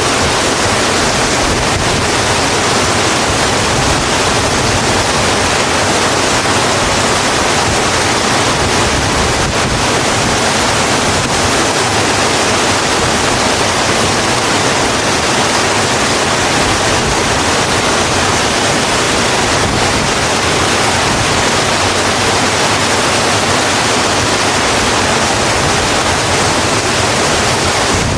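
Steady heavy rain, an even hiss with no distinct drops or pauses.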